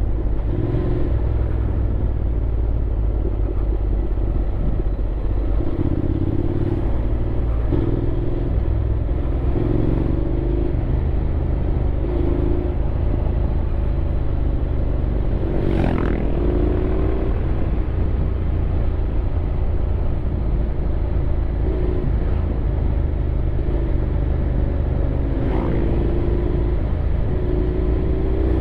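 Honda X-ADV 750's parallel-twin engine running on the move, its pitch rising and falling with the throttle, over a heavy low rumble. A sharp click is heard about sixteen seconds in.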